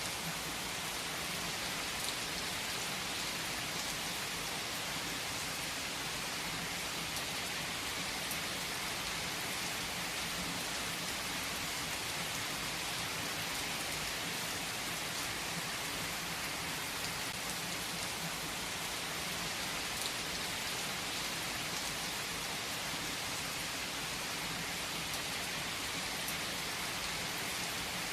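Steady rainfall: an even hiss of rain with scattered individual drops striking a surface.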